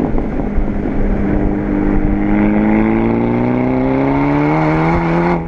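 A Volkswagen GTI's turbocharged four-cylinder engine, fitted with an APR turboback exhaust and K04 turbo, pulls steadily up through the revs under acceleration for about four seconds. Near the end the revs drop suddenly.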